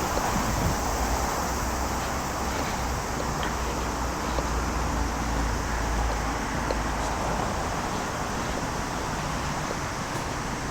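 Outdoor city ambience: a steady wash of distant road traffic, with wind buffeting the microphone as a low rumble that eases after about six seconds.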